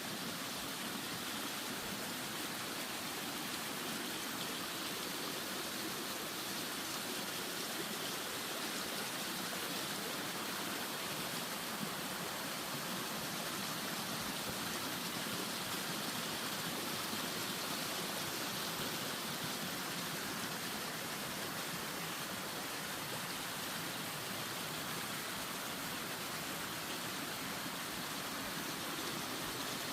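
Steady rushing of flowing water, as from a mountain stream, even and unbroken throughout.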